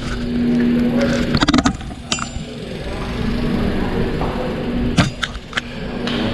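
Ride noise from a bicycle on the road: a steady hum under low rumbling noise, broken by a few sharp clicks and rattles about a second and a half in and again about five seconds in.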